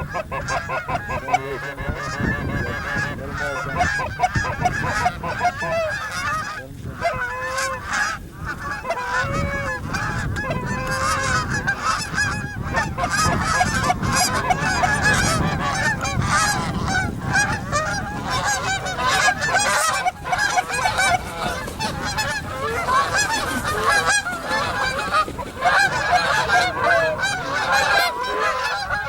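A large flock of geese honking, many calls overlapping without a break.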